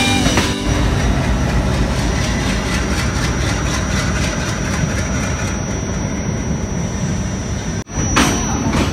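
Locomotive running with a steady low rumble as it hauls a rake of coaches during shunting, a thin high whine joining about two-thirds of the way through. The sound cuts off abruptly near the end and is followed by a rattle of sharp clicks.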